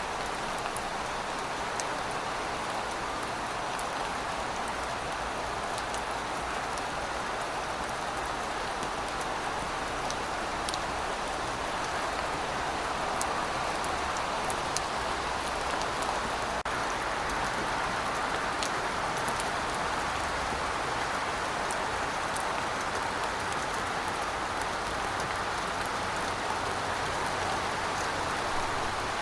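Heavy rain falling in a steady, even hiss, with scattered sharp ticks of individual drops striking a surface.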